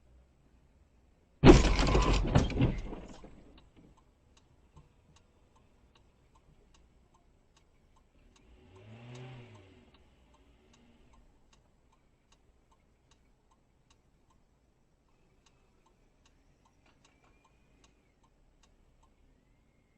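A sudden loud crash, like a car collision, about a second and a half in, dying away over about two seconds. After it comes faint, steady ticking, about two ticks a second, with a brief rising-and-falling hum around the middle.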